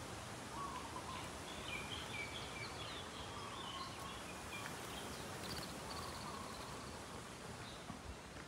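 Birds calling in strings of short chirps over a steady outdoor hiss, the calls fading out near the end.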